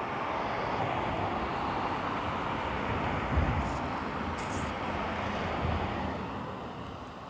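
Steady rushing outdoor noise, like traffic or wind, that swells and then fades near the end, with a brief low thump of wind on the microphone about three seconds in.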